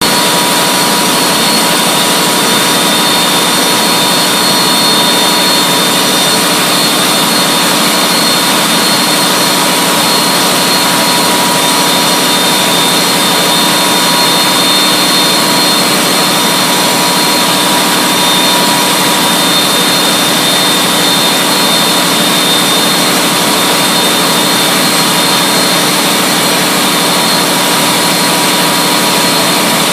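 Large stationary engine running steadily at its flue gas (exhaust) duct outlet: a loud, unchanging noise with a few steady whining tones over it.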